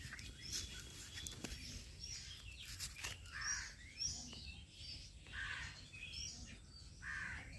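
Birds chirping in short, repeated calls, coming more often after about three seconds, over a faint steady low rumble of outdoor background noise.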